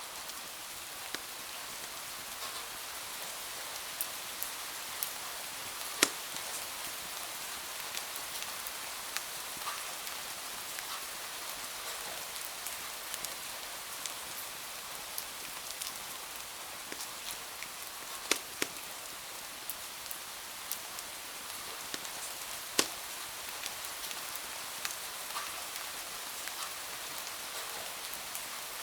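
Steady rain falling, with a fireplace's wood fire crackling over it in scattered sharp pops; three pops, about 6, 18 and 23 seconds in, stand out as the loudest.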